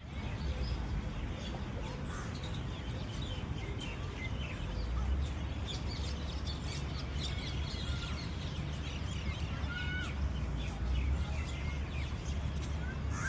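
Birds chirping and calling in many short notes, over a steady low rumble.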